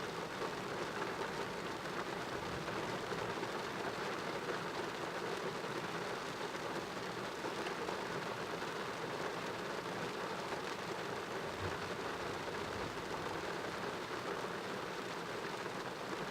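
Heavy thunderstorm rain falling steadily, a continuous even hiss of rain on surfaces.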